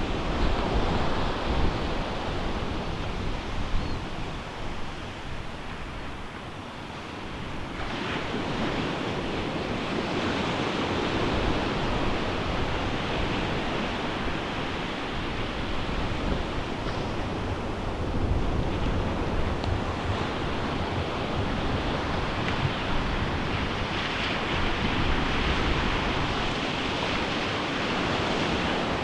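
Ocean surf breaking and washing onto a beach as a continuous rushing wash. The sound eases for a moment about six seconds in, then swells again as the next waves come in.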